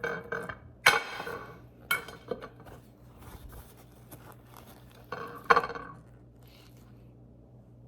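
Kitchen utensils and dishes clattering as the cooked beef tongue is handled: a few sharp clinks and knocks, about a second in, twice around two seconds, and again around five and a half seconds, over a faint steady low hum.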